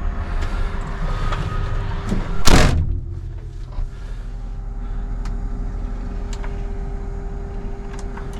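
A cab door shutting with a loud thud about two and a half seconds in, after which the steady low engine rumble sounds quieter and muffled. A steady hum and a few small clicks follow.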